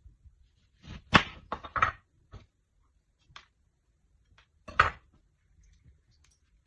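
Kitchen utensils and dishes knocking and clinking during food preparation: a quick run of four or five sharp knocks about a second in, then single knocks spaced a second or so apart.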